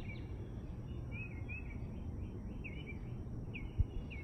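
A bird calling over and over in short slurred chirps, over a steady low background rumble. A brief low thump near the end is the loudest moment.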